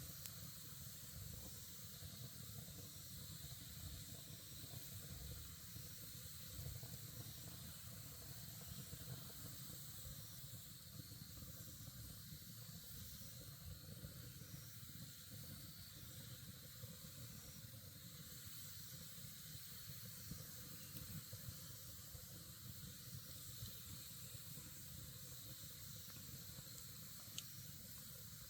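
Campfire burning with a faint, steady hiss and low rumble, dotted with small crackles and one sharper pop near the end.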